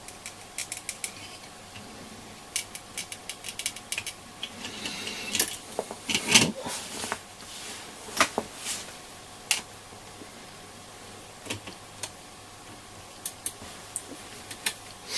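Quick irregular clicks and taps of small tools and parts being handled while a small push switch is fitted into a radio's circuit board for soldering, with a faint steady hum underneath. The clicks come in short clusters, the loudest about six seconds in.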